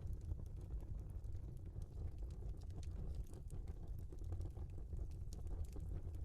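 Burning logs in a fireplace, with frequent small crackles and pops over a low, steady rumble of flames.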